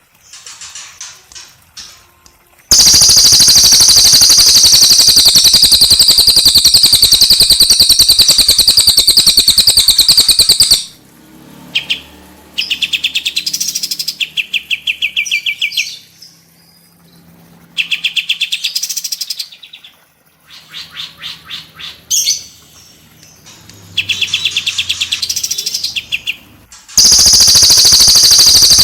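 Songbirds kept as singers, a cililin and a kapas tembak, singing in rapid trills. A long, loud, unbroken high trill runs for about eight seconds, then gives way to a string of shorter trilled phrases of fast repeated notes with pauses between them, and near the end the long trill starts again.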